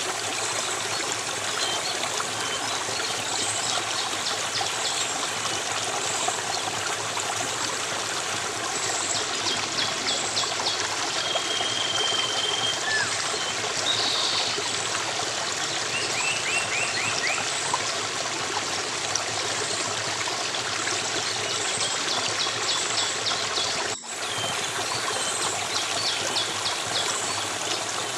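Steady running water of a small stream, with small birds chirping now and then over it in short, high, rapid series. The sound drops out for a moment about 24 seconds in.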